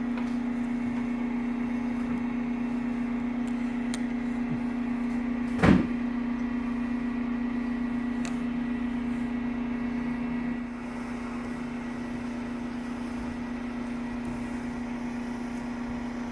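Garbage truck running with a steady, even-pitched hum. A single sharp clunk comes about six seconds in, and the hum drops a little in level near eleven seconds.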